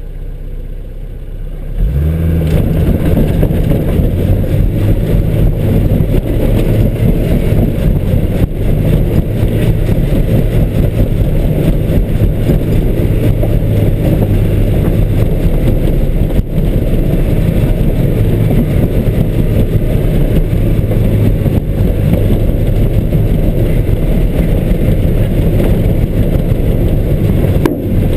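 ZAZ Tavria's four-cylinder petrol engine revs up about two seconds in, then runs hard and steady under heavy load as the car climbs a muddy hill. Heard from inside the cabin.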